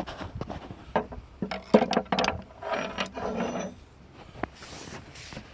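Small metal hardware and hand tools clinking and knocking together as hands rummage through them, a quick irregular run of clicks over about three and a half seconds with some rustling.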